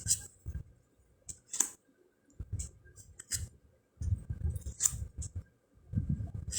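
Round fortune cards being handled and flipped: a scattered series of sharp card clicks and snaps, with low rumbling handling noise between them.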